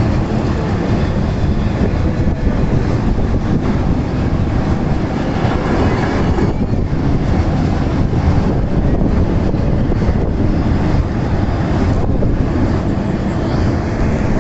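Freight train passing close by: a steady, loud rumble of the wagons rolling over the rails.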